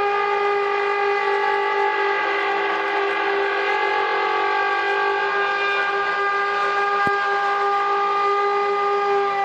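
Bulldozer blade scraping across finished concrete, giving a loud, steady pitched drone that holds one note and stops suddenly near the end, with a brief click about seven seconds in. This scraping is the source of a sound that was taken for mysterious 'trumpets from the sky'.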